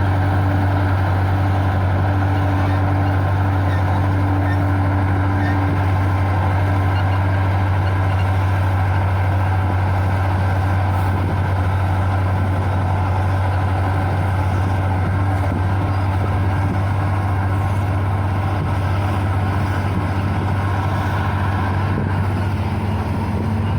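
Engine of a heavy construction machine running steadily, a constant low drone with no change in speed.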